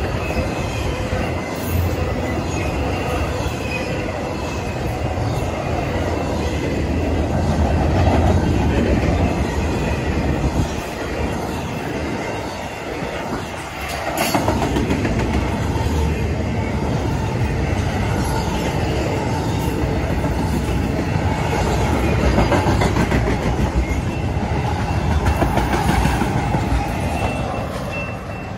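Fast intermodal freight train passing close by: a steady rumble and clatter of steel wheels on rail under double-stacked container cars and trailer flatcars, with a short lull about halfway through.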